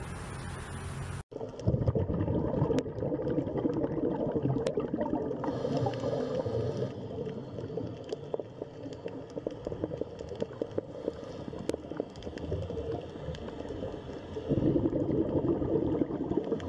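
Underwater water sounds: a continuous bubbling, gurgling crackle, muffled as heard through water, swelling louder near the end. It is preceded by a short steady hiss that cuts off abruptly about a second in.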